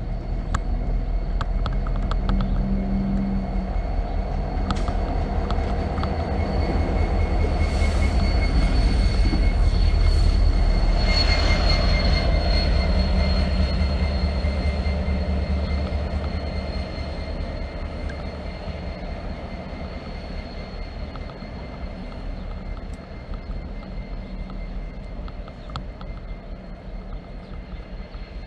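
A train passing with a heavy low rumble that builds to its loudest about a third of the way in, then fades steadily as it moves away. A faint steady high ringing and a few sharp clicks are heard over the rumble.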